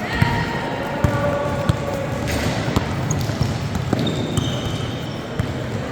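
Basketball bouncing on a gym floor in irregular thuds, with a few short high squeaks and background hall noise.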